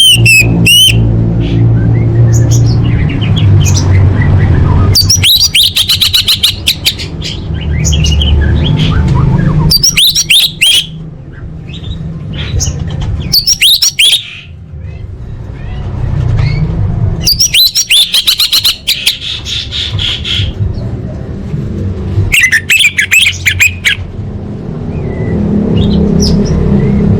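Female orange-headed thrush calling in about five bursts of rapid, sharp, chattering notes a few seconds apart, over a steady low rumble.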